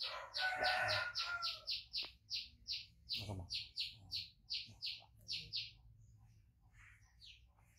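A small bird chirping over and over, three or four short high chirps a second, stopping about six seconds in. A brief voice sounds underneath near the start and again about three seconds in.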